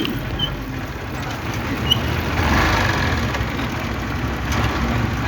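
Motorcycle engine running steadily on the road, carrying a load of gas cylinders.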